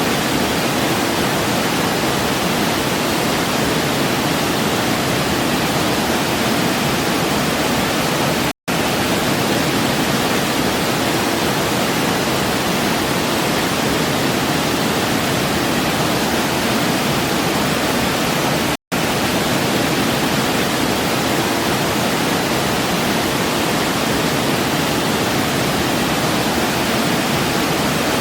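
Waterfall cascade rushing steadily, an even hiss of falling water. It cuts out for an instant twice, about a third and two-thirds of the way through.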